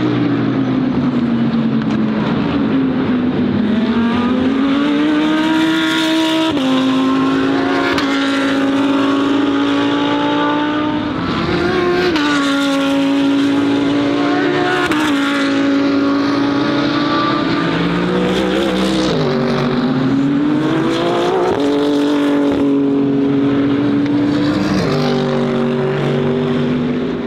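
GT3 race car engines running hard at high revs. The pitch climbs and then jumps in steps every few seconds as the gears change.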